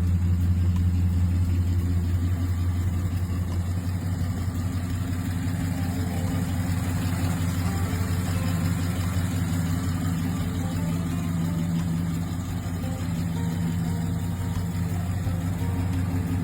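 Classic car engine idling steadily, with a slight dip in level about twelve seconds in.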